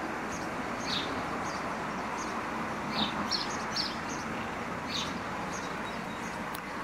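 Small birds chirping in short, high notes, about two a second at uneven intervals, over a steady outdoor rushing background.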